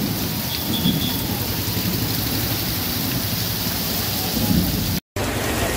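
Heavy rain pouring down on a street, a steady hiss of downpour. The sound cuts out for an instant about five seconds in.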